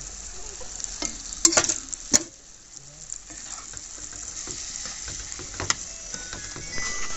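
Chicken leg pieces sizzling in red masala in a non-stick kadai, stirred with a steel ladle. A handful of sharp clicks of metal on the pan come mostly in the first two seconds, with one more near the end.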